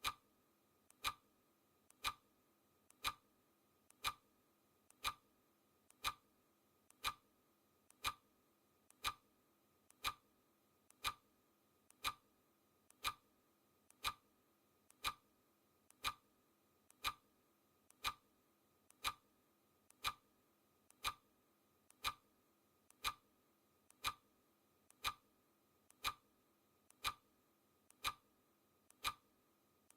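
Clock ticking sound effect: an even tick-tock once a second, the ticks alternately louder and softer.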